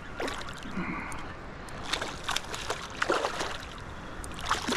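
Water splashing and sloshing in short, irregular bursts as a hooked smallmouth bass is brought in to the bank.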